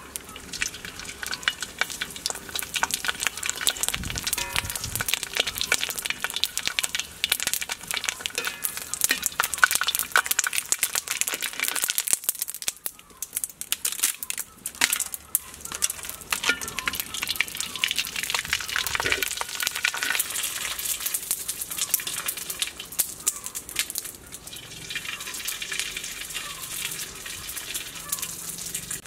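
Dried bean curd (tofu skin) frying in hot oil in a wok: a dense crackling sizzle that eases briefly about halfway through.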